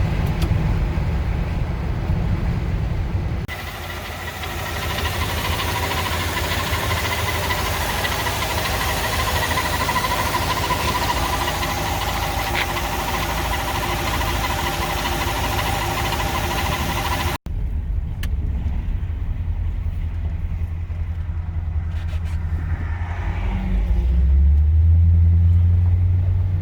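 1965 Ford F100 pickup on the road, heard from inside the cab: a low engine and road rumble, then a long stretch of loud wind and tyre hiss at speed. After that the low engine rumble returns and swells near the end as the truck accelerates.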